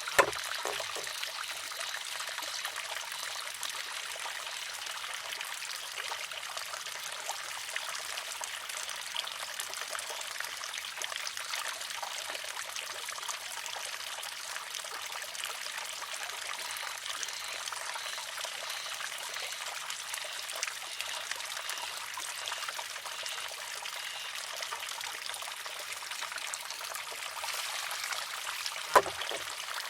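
Wooden shishi-odoshi (sozu) tipping as its water-filled arm empties and striking its rock with a sharp clack, twice, about half a minute apart. Steady trickling water runs into the arm in between.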